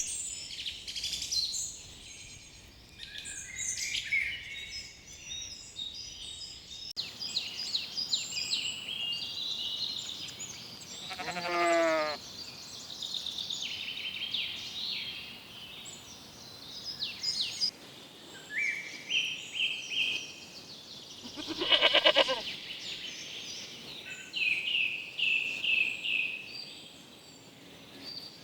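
Lambs bleating twice, once about 11 seconds in and again, louder, about 22 seconds in, over continual high chirping birdsong.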